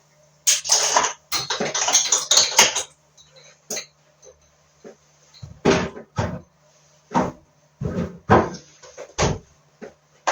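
Handling noise from a hand-held recording device. There is a quick cluster of sharp clicks and knocks in the first few seconds, then single knocks every half second to a second, over a faint steady low hum.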